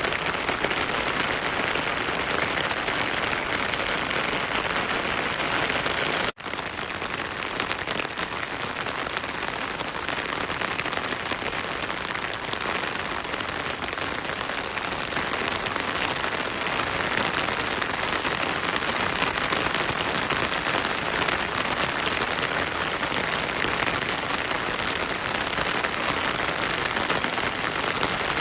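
Heavy rain falling steadily in a forest, an even hiss of many drops, mixed with a flowing stream. The sound cuts out for an instant about six seconds in.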